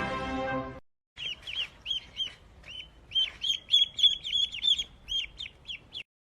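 A bird chirping: a quick, uneven series of short high chirps, each rising then falling in pitch, that cuts off suddenly near the end. Music ends in the first second, just before the chirping starts.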